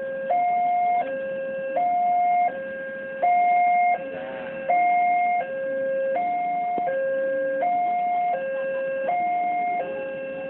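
Train door warning alarm: an electronic hi-lo tone that keeps switching between a lower and a higher pitch, each held for about three-quarters of a second.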